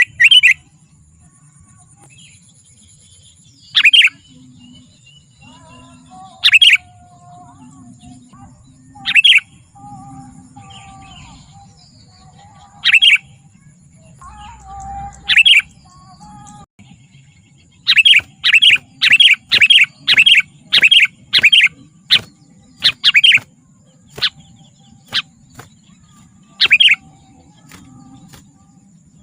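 Sooty-headed bulbul (kutilang) calling with loud, short chirping calls, at first a few seconds apart. Past the middle comes a quick run of about a dozen calls, and after it more calls are scattered.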